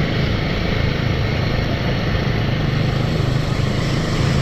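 Royal Enfield motorcycle engine running steadily with a deep, even note, close to the microphone.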